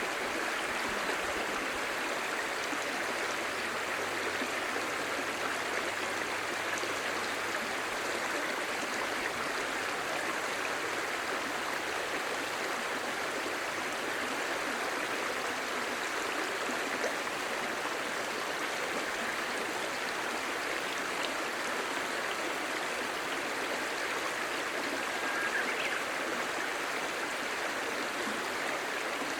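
A clear, shallow stream babbling over stones: a steady, even rush of flowing water.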